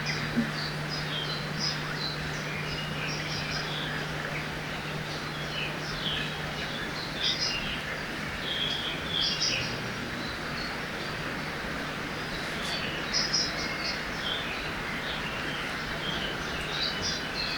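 Forest ambience of many small birds chirping and calling in quick, scattered phrases over the steady rush of a river. A faint low steady hum runs underneath.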